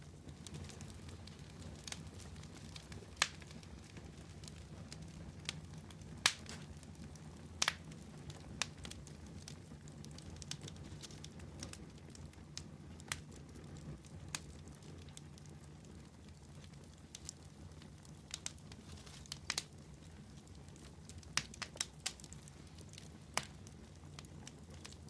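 Wood campfire burning: irregular sharp pops and crackles over a steady low rumble of the flames, with a quick cluster of pops near the end.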